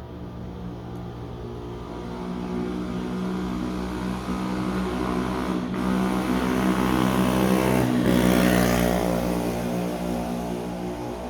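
A motor vehicle passing on the road: its engine grows louder for about eight seconds, drops in pitch as it goes by, then fades.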